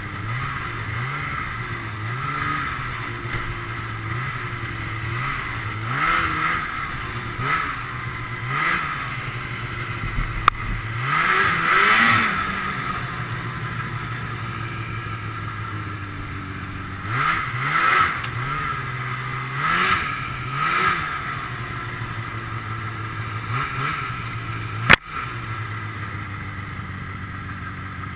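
Ski-Doo Blizzard 5500's fan-cooled Rotax two-stroke twin, running on the move with repeated throttle blips, its pitch rising and falling every second or two and one longer rev about halfway through. A sharp crack about three seconds before the end is the loudest sound.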